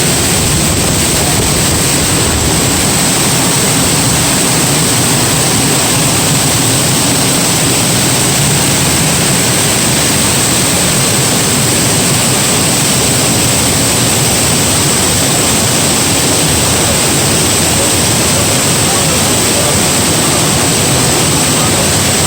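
Waterfall of about 75 feet, falling water making a steady, loud, unbroken rush.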